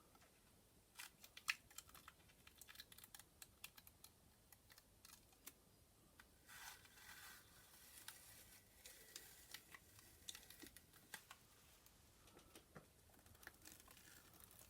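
Faint, scattered small clicks and crackles of masking tape and dried masking fluid being picked at and peeled off a painted canvas, with the sharpest click about a second and a half in.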